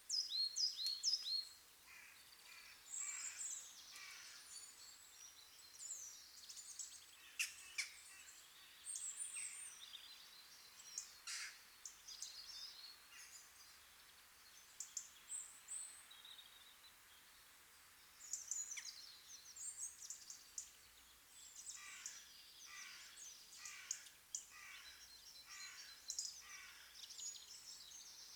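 Birds chirping and calling over a faint steady hiss, with a run of quick repeated calls near the end.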